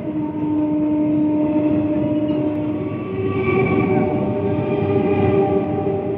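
Electric suburban local train (EMU) rolling past along a platform: a steady rumble of wheels on rail under a steady electric whine that steps up to a higher pitch about three seconds in.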